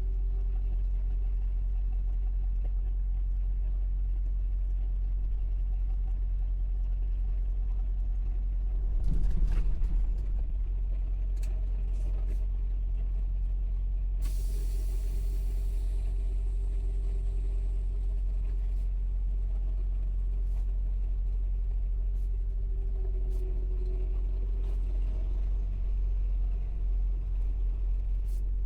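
Semi-truck's diesel engine running, heard from inside the cab as a steady low drone. There is a brief knock about nine seconds in and a short air hiss at about the middle, typical of the truck's air system.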